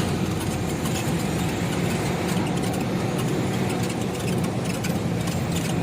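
Diesel truck engine running steadily on homemade biodiesel from used cooking oil, a continuous low drone.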